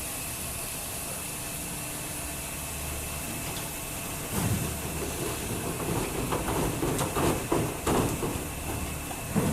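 A machine running with a steady hiss and a low hum. From about four seconds in, irregular knocks and scrapes come over it, as blocks of ice are handled during loading.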